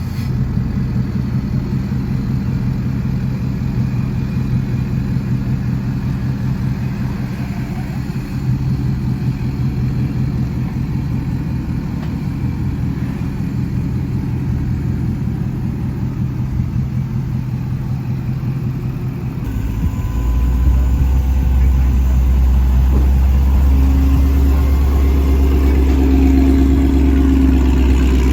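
Car engine running steadily. About twenty seconds in, a louder, deeper rumble comes in and holds.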